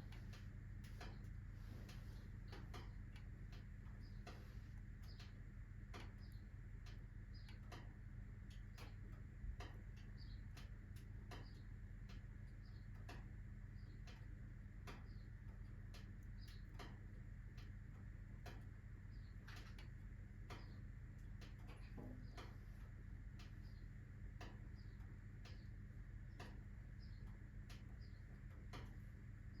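Wood fire of alder, birch and oak crackling: faint, irregular small snaps over a steady low hum, with one soft thump about nine and a half seconds in.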